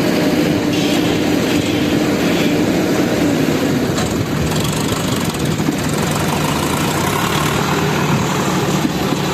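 A vehicle engine running steadily at an even level.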